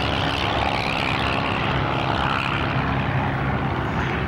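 Piston engine of a small propeller-driven aerobatic plane running steadily in flight.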